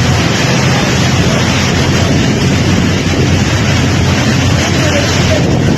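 Steady, loud rush of wind buffeting the microphone over the sound of floodwater, with no breaks or separate events.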